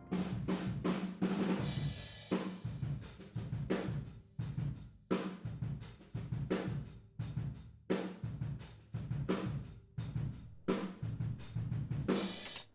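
Drum kit playing a groove of kick, snare and hi-hat, with cymbal crashes near the start and just before it stops, heard through a pair of floor-level room microphones only.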